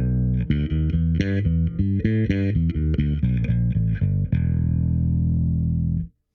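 Four-string Yamaha BB3000 electric bass played through a Darkglass Anagram pitch shifter set five semitones down, with an EQ, so it sounds like a five-string with a low B. A quick run of plucked notes, then one long low note held from about four seconds in that cuts off about six seconds in.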